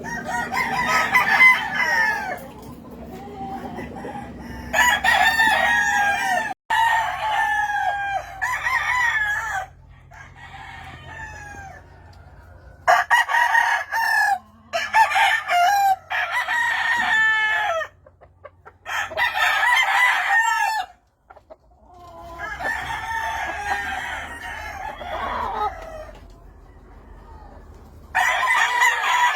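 Gamefowl roosters crowing one after another, about ten crows in turn, with short quieter gaps between them.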